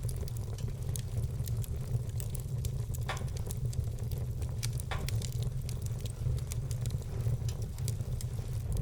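Wood fire crackling, with frequent small snaps and two louder pops about three and five seconds in, over a steady low rumble.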